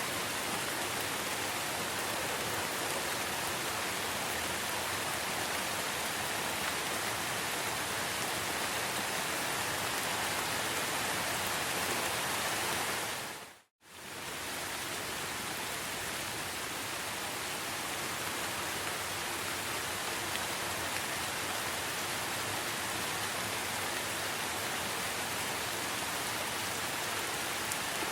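Steady rain falling in a forest, an even hiss of many drops. About halfway through it fades out to silence for a moment and comes back.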